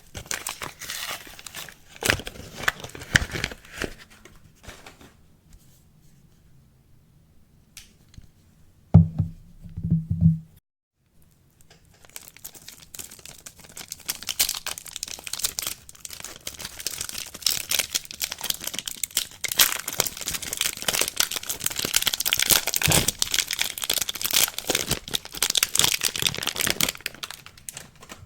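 Soap packaging being torn open and crinkled by hand. The crinkling comes in bursts at first and pauses for a few seconds. A short low thump of handling comes about nine seconds in, and dense crinkling and tearing run through the second half.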